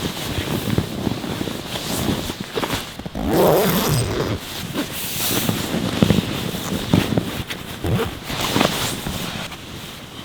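Strong blizzard wind gusting against a tent, the fabric shaking and flapping in irregular bursts, easing near the end.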